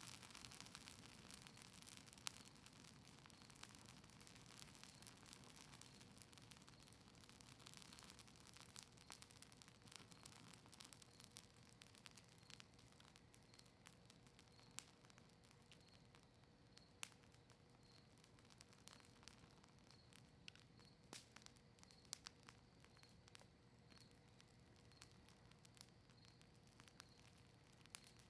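Campfire of cedar leaves and maple wood crackling faintly: scattered sharp pops over a soft hiss.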